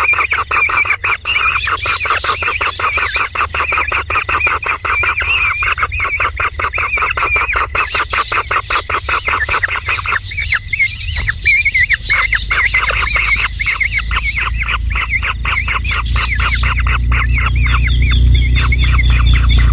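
Bird chirping in a fast, even series of about six notes a second, over a steady high pulsing tone like an insect's. A low rumble grows louder over the second half.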